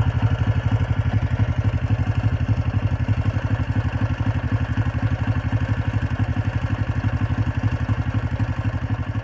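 1980 Honda CB125T's air-cooled 124 cc parallel-twin four-stroke engine idling steadily, purring with an even exhaust beat.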